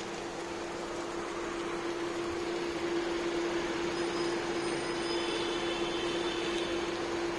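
Steady mechanical hum from a 2009 Honda City's engine bay with the engine running, one mid-pitched tone held unchanged over an even wash of engine noise.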